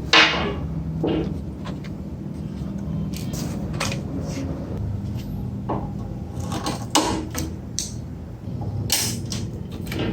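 Irregular clicks and knocks of hard parts being handled, over a steady low hum; the sharpest knock comes just after the start, with another cluster about 7 and 9 seconds in.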